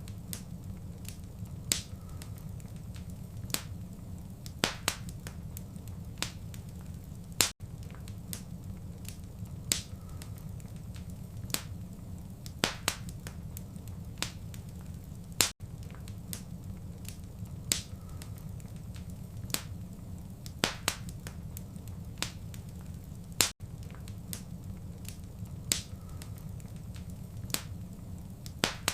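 Wood fire crackling: sharp pops and snaps at uneven intervals over a steady low rumble of burning. The same few seconds of crackle repeat about every eight seconds, each time with a brief dropout in the sound.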